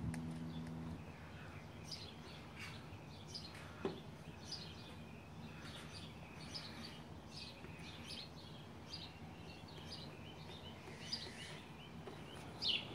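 Birds chirping in the background, many short falling chirps scattered throughout. A single light click about four seconds in.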